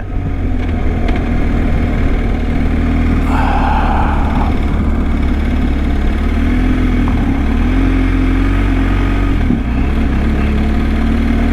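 BMW GS Adventure motorcycle engine running steadily at low speed, close to the microphone, with its low rumble wavering slightly.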